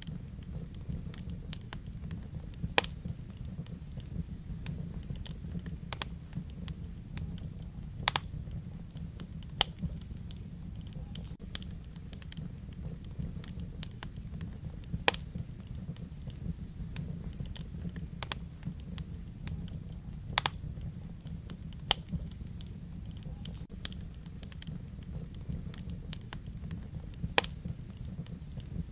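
Wood fire burning in a fireplace: a steady low rumble of the flames with sharp, irregular crackles and pops every second or two.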